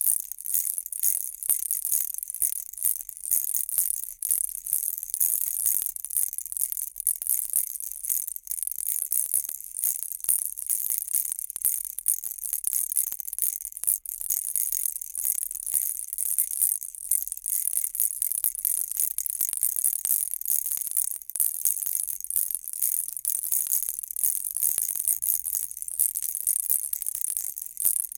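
Baby rattle shaken continuously: a dense, bright, steady rattling of many small clicks.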